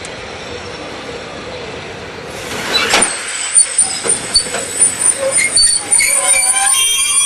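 A heritage passenger train running with a steady rumble; about two and a half seconds in, high-pitched metallic squealing from wheels and brakes sets in and grows louder, wavering in pitch.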